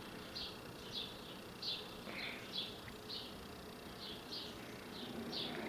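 Faint cricket chirping: short high chirps repeating steadily about twice a second.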